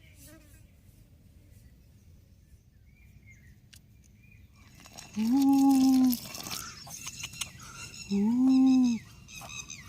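A person's voice humming a drawn-out "mmm" twice in the second half, each about a second long and held at one steady pitch, after a quiet stretch.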